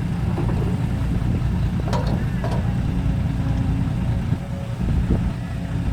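Diesel dump truck engine running with a steady low rumble.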